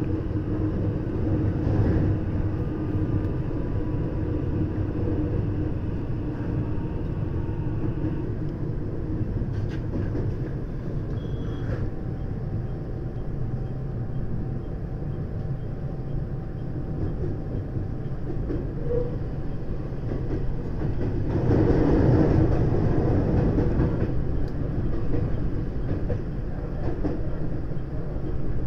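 JR West 521 series electric train running, heard from inside the motored cab car KuMoHa 521-46: a steady rumble of wheels on rail with a faint whine. The noise grows louder for a few seconds about three-quarters of the way through.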